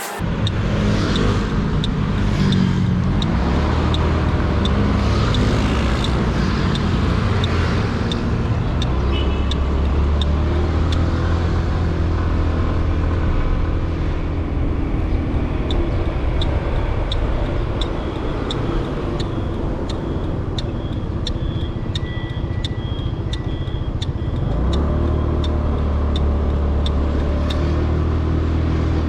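Motorcycle riding at about 40–50 km/h, heard through a helmet-mounted action camera's foam wind sponge: a steady low wind rumble with the engine running under it. A regular ticking, about two a second, runs through it.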